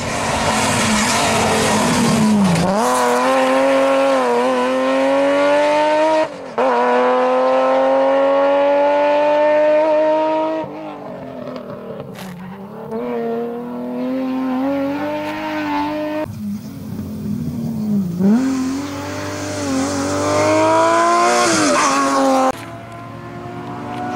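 Rally car engine revving hard under acceleration. Its pitch climbs steadily, dips sharply when the driver lifts or shifts, then rises again, several times over.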